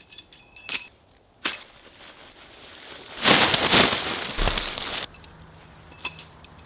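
Metal tent stakes clinking together with a bright ringing, a few sharp clicks, then a couple of seconds of loud rustling about three seconds in, and more light clinks near the end.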